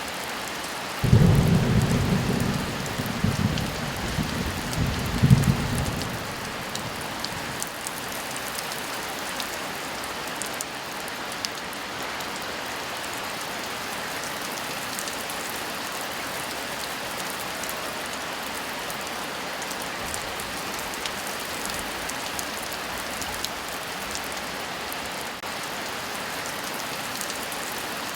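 Steady heavy rain, with a sudden clap of thunder about a second in that rumbles low for about five seconds, swelling once more before it fades.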